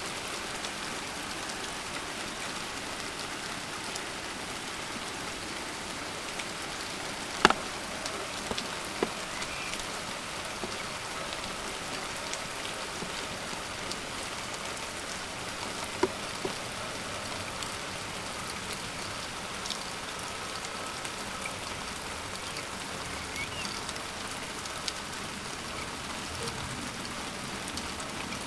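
Steady heavy rain falling in a thunderstorm downpour, an even hiss of drops on surfaces. A few sharper drop ticks land close by, the loudest about seven and a half seconds in and another around sixteen seconds.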